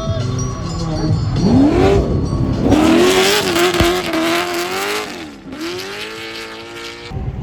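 A car engine revs up and holds high revs while the tires squeal, as in a drift or burnout. About five and a half seconds in the revs drop briefly and climb again, and the sound cuts off suddenly near the end.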